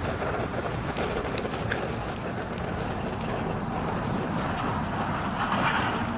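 Wood campfire burning: a steady rushing rumble with scattered sharp crackles and pops.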